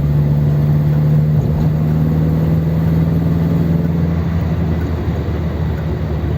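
1955 Ford 100E's 1172 cc four-cylinder sidevalve engine running as the car drives, a steady hum that steps up slightly in pitch about a second and a half in and grows a little quieter near the end.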